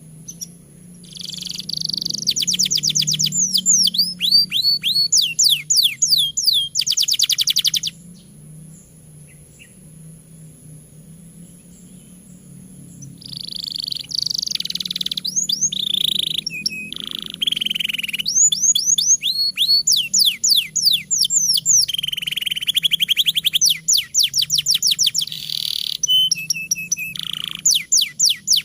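Domestic canary singing in full voice: long, fast phrases of rapid trills and falling whistled sweeps. One bout runs for about seven seconds, breaks off for about five, and a longer bout starts again.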